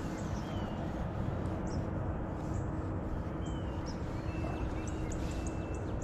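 Small birds calling: short high chirps and brief whistled notes every second or so, over a steady low rumble of outdoor background noise.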